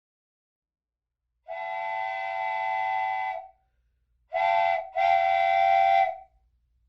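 Electric model train whistle blowing three times: a long blast, a short one, then another long one, each a steady chord-like tone.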